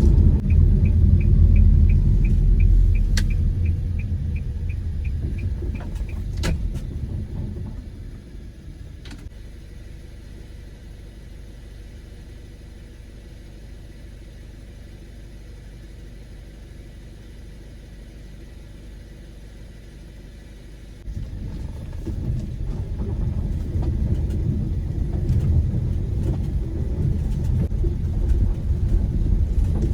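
Low vehicle rumble, loud at first and dying away after about eight seconds, then coming back suddenly about 21 seconds in. A quick run of light, even ticks is heard in the first few seconds.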